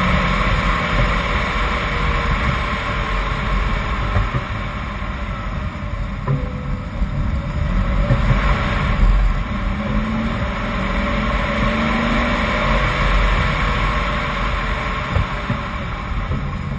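A BMW 328i's straight-six engine pulling hard up a twisting hill road, its pitch rising and falling as the driver accelerates out of bends and lifts for the next, over steady wind and tyre noise.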